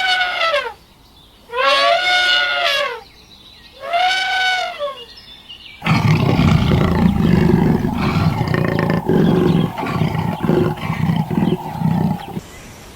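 Three drawn-out animal calls, each rising then falling in pitch, about two seconds apart. About six seconds in, a big cat's low, rumbling growl-roar takes over for several seconds.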